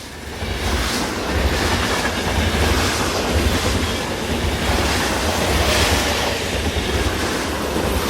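Passenger train running on rails, heard from on board: a steady low rumble under a rushing noise with wheel clatter on the track, fading in at the start and tapering off near the end.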